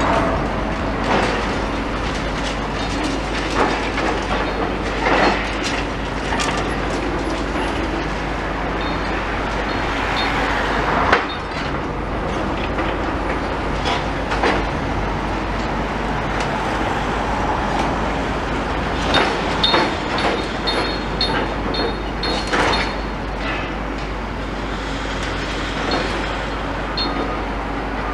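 Demolition machinery working amid traffic rumble, with scattered knocks and clatter; the sharpest knock comes a little before halfway. A little past halfway, a run of rapid, evenly spaced beeps sounds for about three seconds.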